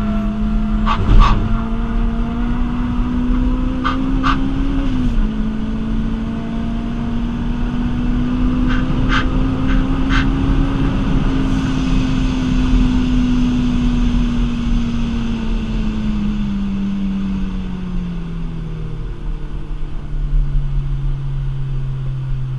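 Rotrex-supercharged Toyota Celica 2ZZ inline-four heard from inside the cabin, running at a fairly steady pitch that creeps up, then falls away over several seconds and settles lower near the end as the car eases off. A few sharp clicks sound in the first ten seconds.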